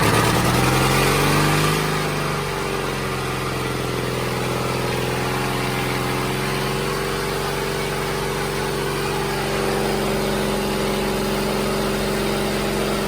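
The 1940 Caterpillar D4 7J's two-cylinder gasoline pony motor catching on ether and running: it revs up for a second or two, then settles to a steady, governed run.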